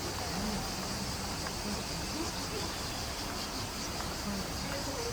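Insects chirring steadily, a continuous high-pitched drone such as cicadas or crickets make.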